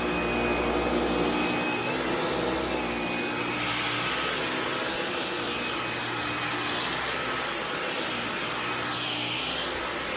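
Dyson V11 Animal cordless stick vacuum running steadily: a motor whine over a rush of air, with its pitch shifting slightly a few times.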